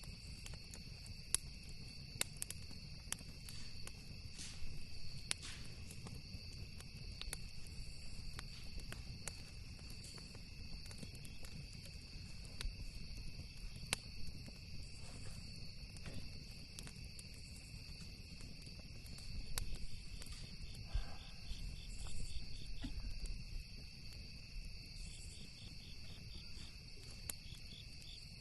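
Campfire crackling with scattered sharp pops, over a steady high-pitched chorus of crickets and a low rumble.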